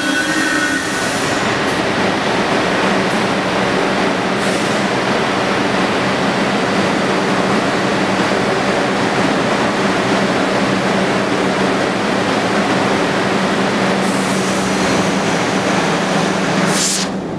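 R62A subway train running through the station: a loud, steady rumble of wheels on rails with a low hum underneath and a few brief hisses.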